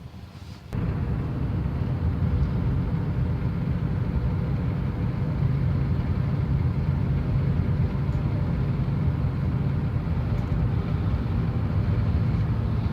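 Pickup truck driving: steady engine and road noise, strongest in the low end, that comes in suddenly about a second in.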